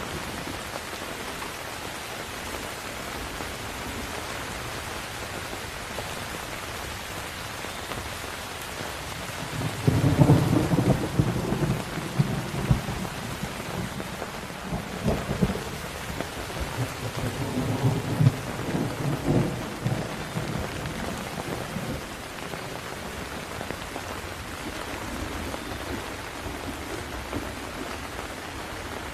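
Steady heavy rain with a long roll of thunder rumbling through the middle, starting with a loud low crack about a third of the way in and rolling on in several swells for about ten seconds before fading back to rain.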